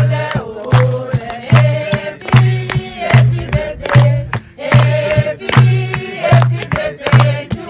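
A group of voices singing together in chorus over a steady drum beat of about one beat every 0.8 seconds, with sharp claps or clicks between the beats.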